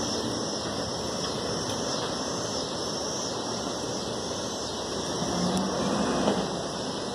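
Garbage truck engine running steadily, swelling a little about two-thirds of the way through.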